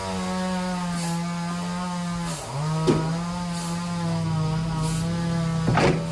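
Sawmill power saw running with a steady pitched hum. Its pitch dips briefly about two and a half seconds in, then holds a little lower. A sharp knock comes near three seconds in and another near the end, as the saw sound stops.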